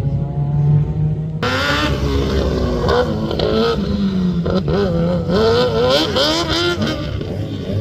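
Rally car engine revving hard, its pitch rising and falling with throttle and gear changes. A steadier, lower engine note gives way suddenly about a second and a half in to the louder revving.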